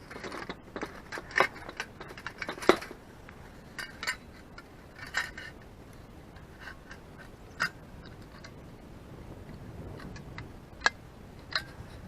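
Light metal clinks and clatters from handling metal camping gear, irregular and a second or so apart, some ringing briefly; the loudest fall in the first few seconds, with two more sharp clinks near the end.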